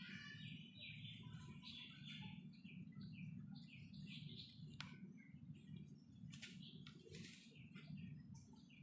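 Faint chirping of small birds, many short high notes in quick succession, over a low steady hum. A single sharp click comes a little past the middle.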